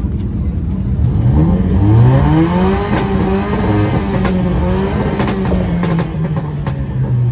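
A vehicle engine revved up over about a second and a half, then held at high revs for about five seconds, easing down slightly and dropping back near the end, with a few sharp pops along the way. It sounds nice, just not loud.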